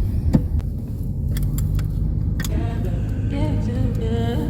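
Car cabin noise from a moving taxi: a steady low road-and-engine rumble, with a few sharp clicks early on.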